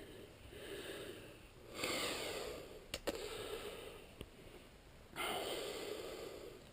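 A man breathing heavily in long, noisy breaths a couple of seconds apart. A few sharp clicks or knocks come about three and four seconds in.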